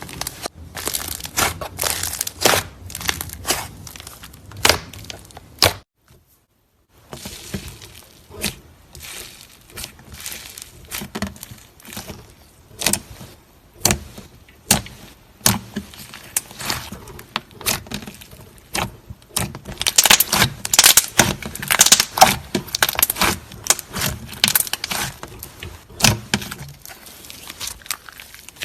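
Slime with clay mixed in being squeezed and kneaded by hand, making dense runs of sharp crackling clicks and pops. There is a short break of silence about six seconds in.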